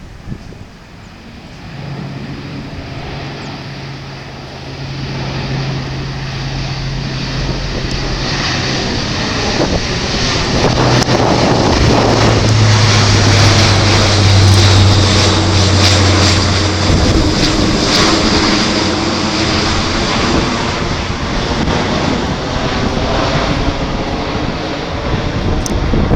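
Airbus A400M Atlas's four turboprop engines and propellers droning as the aircraft passes by. The drone grows louder to a peak about halfway through, its pitch drops at about the same time as it goes past, and it then eases off slightly.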